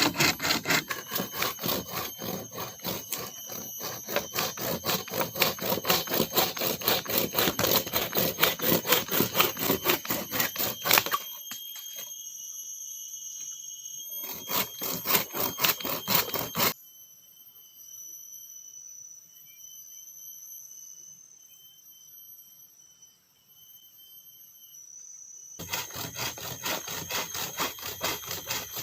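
Saw cutting through wood in rapid, rhythmic strokes, which stop about halfway through; a steady high insect trill carries on through the lull, and the sawing starts again near the end.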